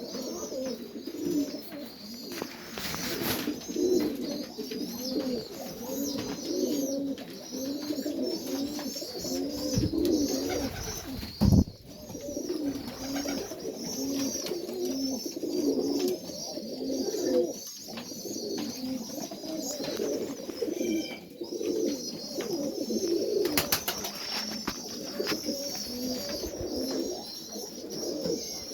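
Serbian Highflyer pigeons cooing over and over, with higher chirping calls above the cooing. One loud thump about eleven seconds in.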